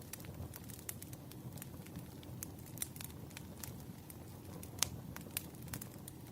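Firewood burning in a campfire: a steady low rumble with frequent irregular sharp crackles and pops, one louder pop about three quarters of the way through.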